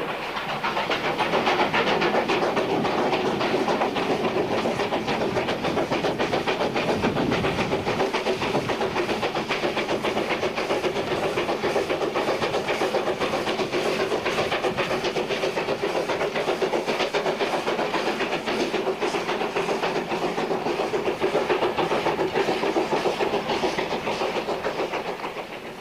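Steam train of the Virginia and Truckee Railroad running steadily along the track, a continuous rolling rumble with fine rapid clatter.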